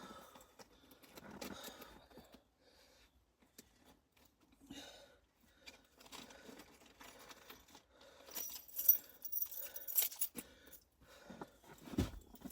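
Scattered handling clicks and rustles, with keys jangling for a couple of seconds about eight seconds in, and a low thump near the end.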